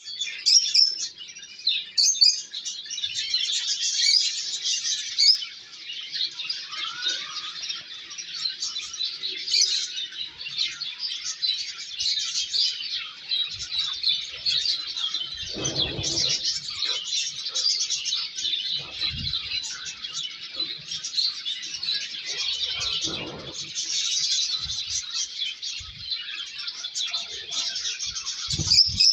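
A flock of caged pet love birds (small parrots) chirping and chattering over one another without a break, with a few dull thumps in between.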